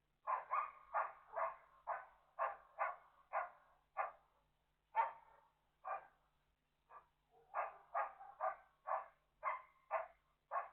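A dog barking over and over, about two barks a second, with a couple of short breaks midway.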